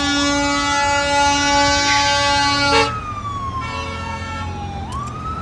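Emergency vehicle siren wailing slowly up and down, with an air horn blaring steadily over it. The horn cuts off about three seconds in, and the siren wail rises again near the end.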